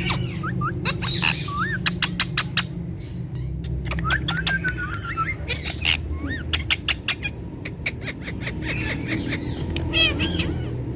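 Indian ringneck parakeets chirping and squawking: short whistled rising and falling notes and quick runs of sharp calls, over a steady low hum.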